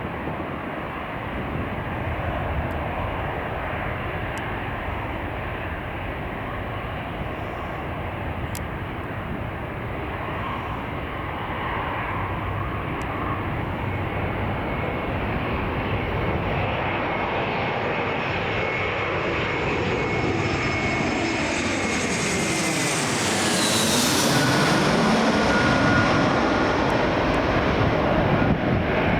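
Airliner's engines growing steadily louder as it approaches and passes close by. A high whine drops in pitch as it goes past, about three-quarters of the way through, and the noise is loudest just after.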